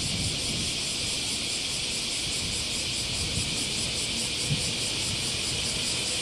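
A Shinkansen train passing along the elevated viaduct with a low rumble, under a steady, high-pitched pulsing drone of insects.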